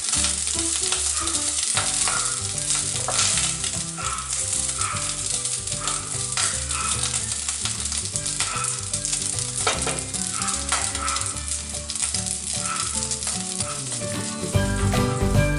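Raw rice frying in hot oil in a stainless steel pot: a steady sizzle, with a wooden spatula stirring through the grains and now and then scraping the pot. The rice is being toasted golden before the tomato goes in.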